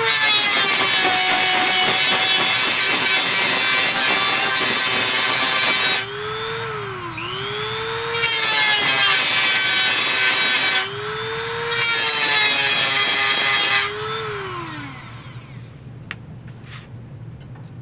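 Small handheld power tool run in three spurts while working the old hinges off, its high whine sagging in pitch under load between spurts. It winds down about fifteen seconds in, leaving a few faint knocks.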